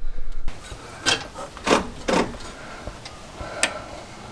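A few separate metallic knocks and clicks of a wrench on the engine as the Thunderbird's engine is turned over by hand to check how freely it rotates.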